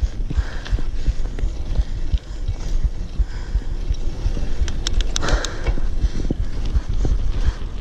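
Wind buffeting the microphone while riding a bike, with a steady low rumble and frequent small knocks and rattles from the bike going over rough ground.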